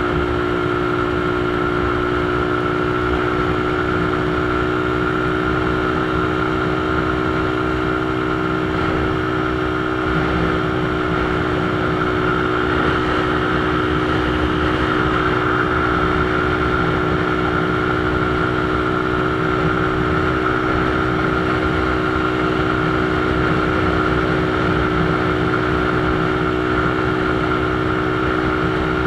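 Motorcycle engine running at a steady cruising speed, a constant drone that does not change pitch, with road and wind noise underneath.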